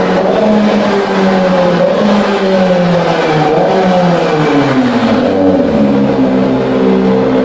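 Kawasaki ZX25R's 250 cc inline-four engine running through an aftermarket exhaust, its pitch holding, then falling over about three seconds as the revs drop, then steady again.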